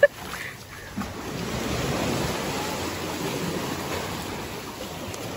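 Ocean surf washing onto a beach: a steady rush of waves that swells about a second or two in.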